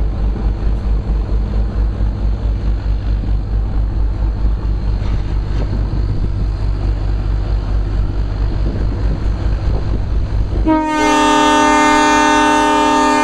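Ride noise of a narrow-gauge train: a steady low rumble and clatter from the moving cars. About eleven seconds in, the locomotive sounds one long blast on its horn, several tones together, lasting about two and a half seconds.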